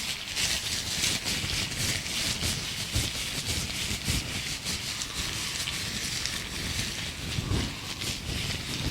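Gloves being rubbed and handled close to the microphone: a dense, continuous crinkling and crackling rustle with soft low thumps.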